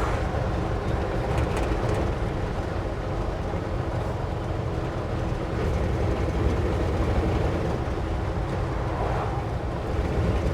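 Ford F600 medium-duty truck driving on the road, heard from inside the cab: a steady rumble of engine, drivetrain and road noise.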